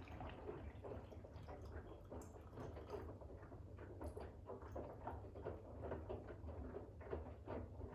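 Bosch WAX32GH1 front-loading washing machine drum turning wet towels in rinse water during the final rinse: irregular soft splashes and slaps as the load tumbles, over a low steady hum.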